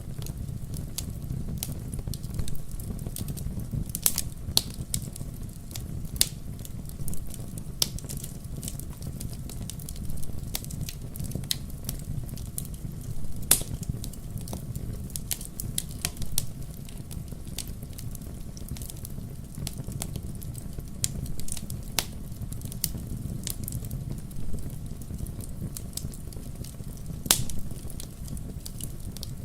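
Wood logs burning in a fireplace: a steady low rumble of flame with irregular sharp crackles and pops, a few louder snaps among them.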